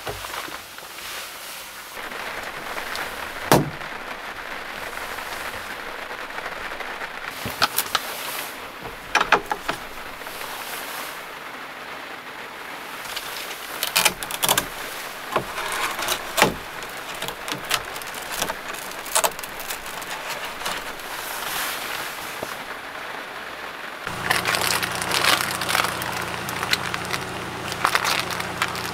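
Steady rain on a small van's body and windows, with scattered sharp clicks and knocks as gear is handled and fitted inside. For the last few seconds a steady low hum joins.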